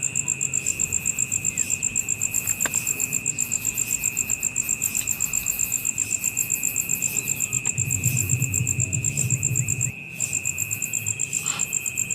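Insects chirping: a high, evenly pulsed trill at about six or seven pulses a second over a steady lower buzz. The pulsing breaks off briefly about ten seconds in.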